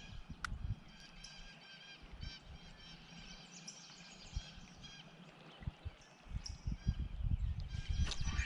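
Birds calling over and over in short, clipped calls. Low thumps and rumble get busier over the last few seconds.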